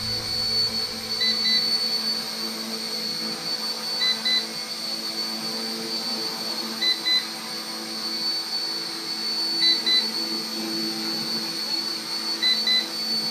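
Electric motor and rotors of an RC Era C032 UH-1 Huey micro RC helicopter whining steadily in a low hover. Over it, the transmitter's low-battery alarm sounds as a pair of short beeps about every three seconds.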